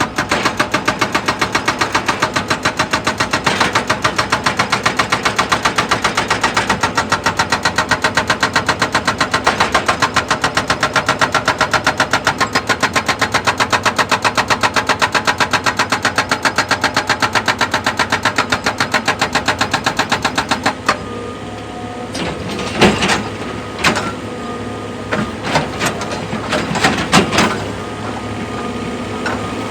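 Heavy machinery working with a rapid, even pounding. The pounding stops about two-thirds of the way through, leaving a quieter steady running sound broken by a few separate clunks and knocks.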